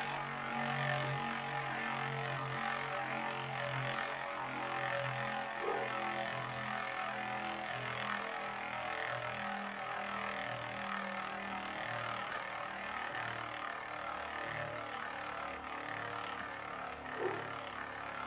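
Two metal Beyblades, Burn Fireblaze 105HF and Lightning L-Drago 100SD, spinning in a stadium: a steady whir and scrape of their tips on the stadium floor, with two brief knocks, about six seconds in and near the end.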